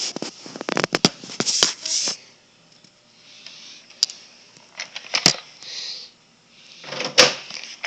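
Rustling handling noise with scattered sharp clicks, then near quiet for about two seconds, then a few separate clicks and a louder knock near the end.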